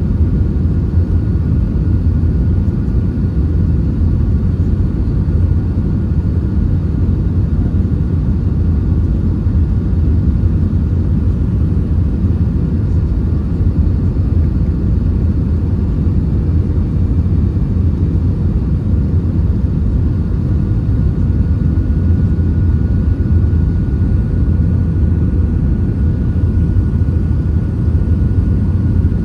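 Steady in-cabin noise of an Airbus A320-232 in flight: a loud, even low rumble of airflow and its IAE V2500 engines, with a faint thin whine over it.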